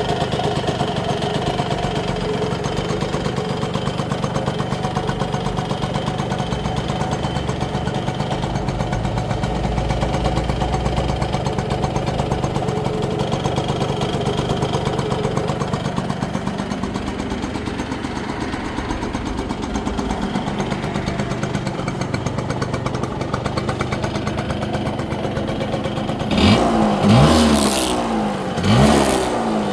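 1966 Yamaha YA6 125cc two-stroke motorcycle engine idling steadily, then revved with quick throttle blips three times near the end.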